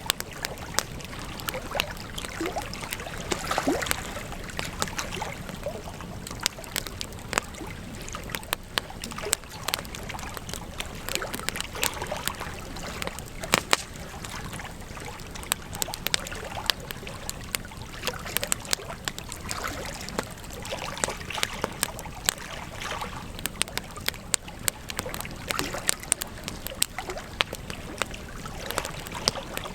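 Wood campfire burning and crackling: many sharp irregular pops and snaps over a steady soft hiss.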